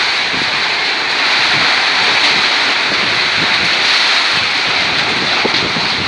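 Heavy tropical downpour in strong wind: a loud, steady rush of pouring rain.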